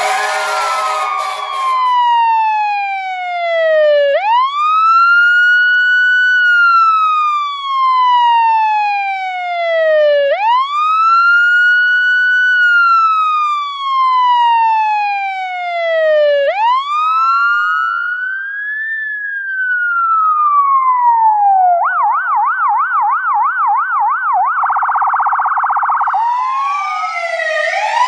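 Electronic fire-truck siren cycling through its tones: a slow wail that rises and falls about every six seconds, three times over. Past the middle it switches to a fast yelp, then a faster warble, before rising again. A dense buzzing sound with many tones stops about two seconds in.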